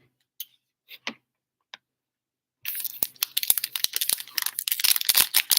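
A 2020 Playbook football card pack's wrapper being torn open and crinkled, starting about two and a half seconds in as a dense run of crackles, after a few faint clicks.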